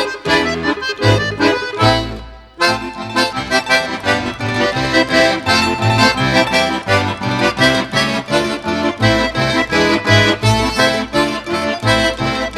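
Accordion music playing a lively tune with a steady beat in the bass. It breaks off for a moment about two seconds in, then carries on.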